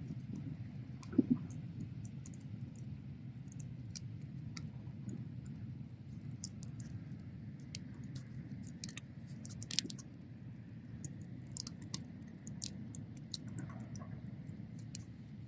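Bonfire burning: a steady low rush of flames with scattered crackles and pops, the sharpest about a second in and near ten seconds.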